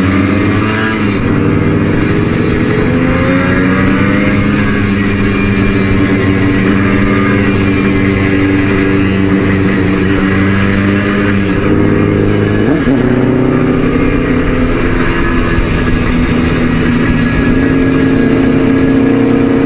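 Motorcycle engine under way at cruising speed, heard from the rider's seat with wind rushing past. The engine note holds steady, then about two-thirds through it drops and climbs again at a gear change.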